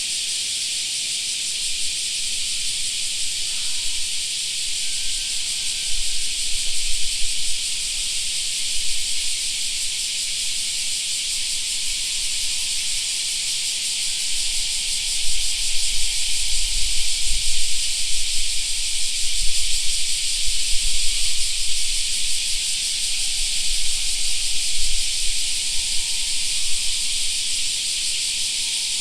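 A chorus of cicadas droning steadily in a high, unbroken hiss. A low rumble comes and goes beneath it.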